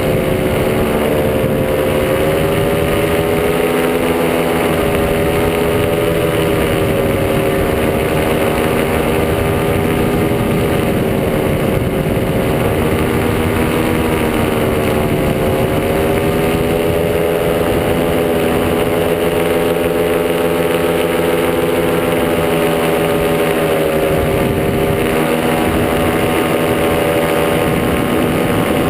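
Top80 paramotor's two-stroke engine running steadily, its pitch drifting gently up and down as the throttle shifts, with wind rushing past.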